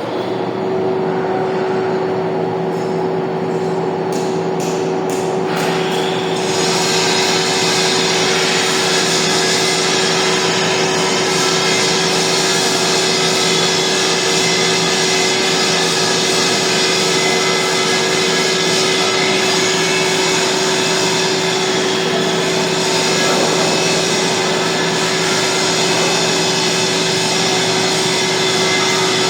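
Lathe running with a steady hum; the sound grows louder and noisier about six seconds in and then holds steady.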